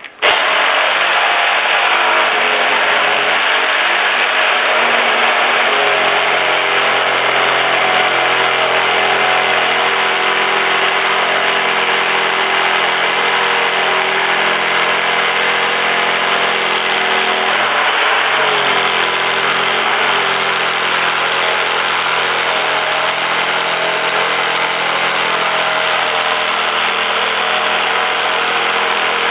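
A motor running steadily at an even speed, switched on or cut in abruptly at the start.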